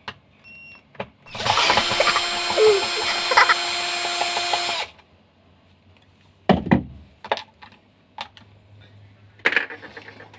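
Power drill backing out a screw in one steady run of about three and a half seconds, followed by scattered clicks and a knock as the parts are handled.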